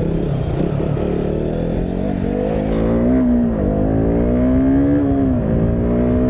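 Motorcycle engine accelerating away, its pitch climbing and then dropping twice as it shifts up through the gears, then running at a steady pitch.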